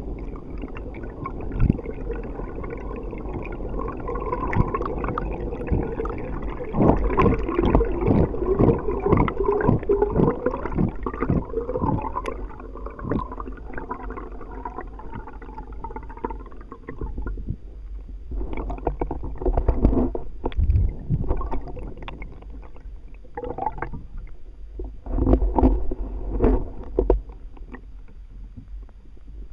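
Water gurgling and sloshing against a kayak hull, heard muffled through a camera at or below the waterline, over a low rumble. Irregular knocks and splashy bursts come and go, with a quick rhythmic run of them about a quarter of the way in.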